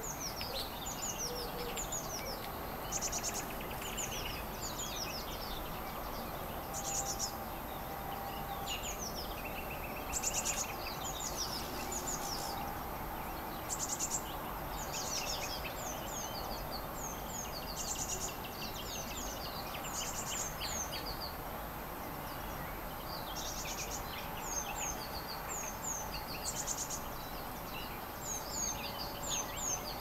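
Songbirds singing outdoors: many quick falling chirps, with short buzzy trills every few seconds as the loudest calls, over a steady background of low environmental noise.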